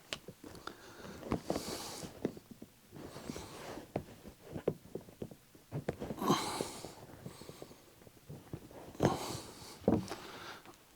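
A car seat cover being worked loose and pulled off the seat foam by hand. It makes irregular clicks and rustles, with a few louder scraping, rustling bursts.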